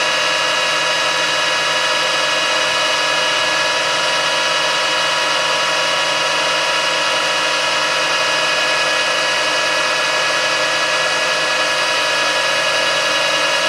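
Metal lathe running steadily with a 16 mm bar spinning in the chuck, its motor and gearing giving a constant whine of several pitches.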